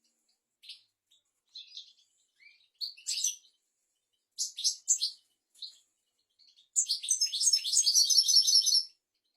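European goldfinch singing: scattered short high chirps and notes, then a rapid twittering phrase of about two seconds near the end.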